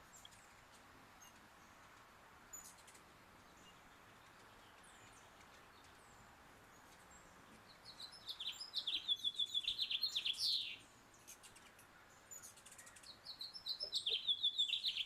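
Hummingbird chittering: two bursts of rapid, high, repeated chips, about three seconds each, starting about halfway through and again near the end, over a faint steady hiss of light rain.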